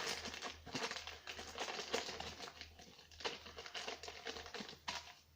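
Posters rustling and crinkling as they are handled: a dense, irregular crackle with a few sharper clicks, easing off near the end.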